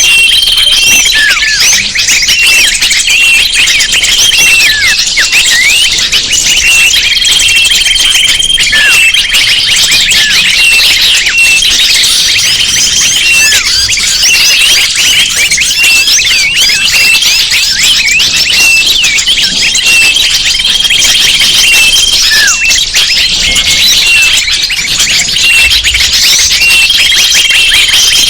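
Bird-lure recording: a dense, loud chorus of small birds chirping and twittering without pause, with a steady high whistled note that comes back every few seconds.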